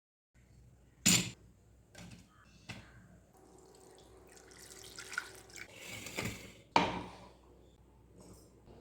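Kitchen sink work: water running for a few seconds, with several sharp knocks of a utensil or vessel, the loudest near the start and just after the water stops.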